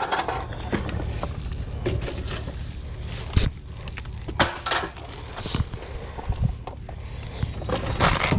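Pieces of scrap metal clanking and clinking as they are handled and tossed, with sharp knocks about three and a half seconds in, about four and a half seconds in, and near the end, over a steady low hum.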